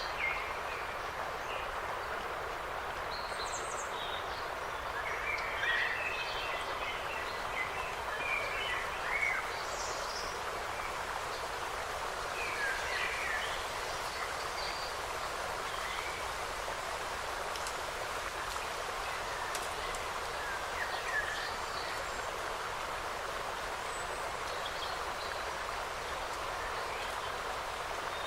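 Small birds giving short, scattered chirps, most of them in the first half, over a steady rushing background hiss.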